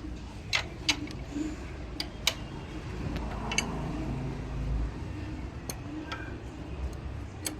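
Sharp metallic clicks and clinks of hand tools and bolts being handled during engine reassembly, about seven of them at irregular intervals, over a low steady background hum.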